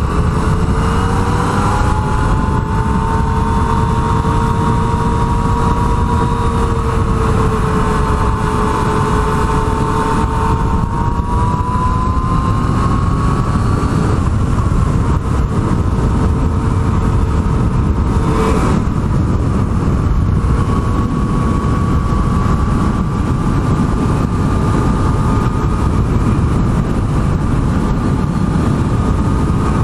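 Yamaha MT-09 inline-three engine cruising at a steady throttle, its pitch drifting gently up and down, under heavy wind and road noise on the microphone. One short click about two-thirds of the way through.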